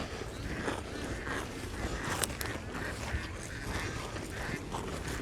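Short animal calls repeating about twice a second over a low, steady background rumble.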